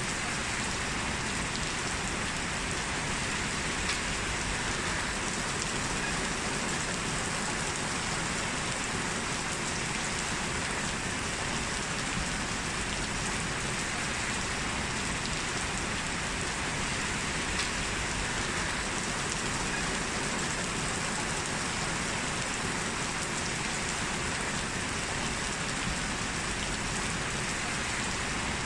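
Heavy rain falling steadily, a dense even hiss of drops with no let-up, a single drop tick standing out now and then.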